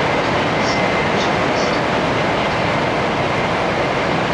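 700 series Shinkansen running, heard from inside the passenger car: a steady rumble and rush of running noise with a faint, thin, steady high tone.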